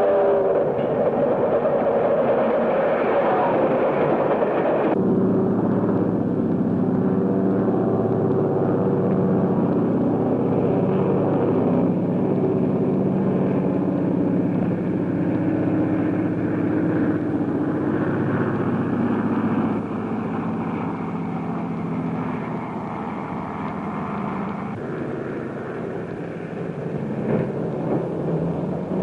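Vehicle sound effects on an early sound-film track, cut between shots: a train whistle fading in the first seconds, then the steady drone of running trains and a propeller airplane's engine, with the mix changing abruptly every several seconds.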